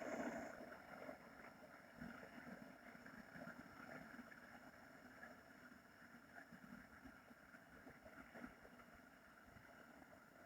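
Faint, slow breathing through a narrowed throat, making a soft steady hiss in the throat: Taoist 'fire' abdominal breathing. One long, unbroken breath that slowly fades.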